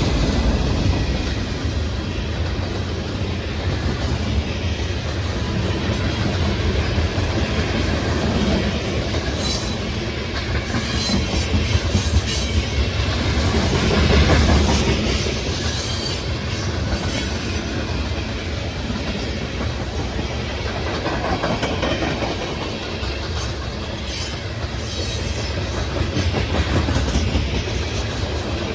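A freight train's cars rolling past, with a steady rumble and wheels clacking over the rail joints. Brief high wheel squeals come through in the middle.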